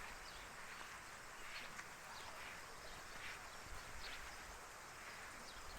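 Quiet outdoor ambience: faint, scattered short bird chirps over a low wind rumble.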